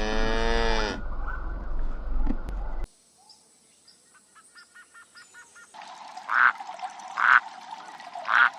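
A string of different animal calls spliced together with abrupt cuts: a pitched call with a wavering pitch in the first second, quieter calls and faint chirps in the middle, then three loud short calls about a second apart near the end.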